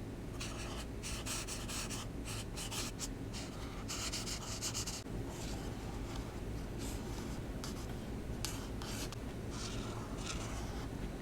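Alcohol marker nib stroking back and forth on paper in quick, short, scratchy strokes. The strokes are dense for the first five seconds or so, then lighter and more spaced out.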